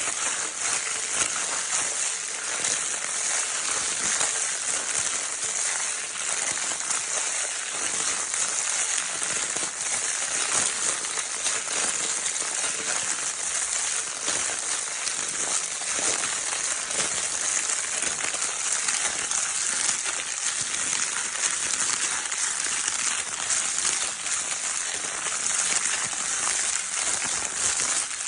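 A baby's crinkle paper toy being crinkled continuously: a dense, steady crackle of fine rustling clicks, brightest and hissiest high up.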